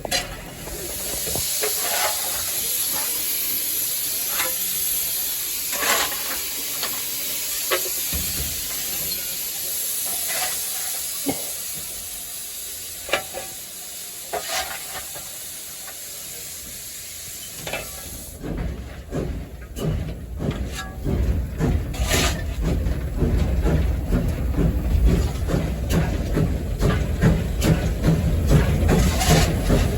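Steam locomotive hissing steadily at a standstill, with scattered clinks. About 18 s in, a loud low rumbling with rapid knocks starts and keeps up.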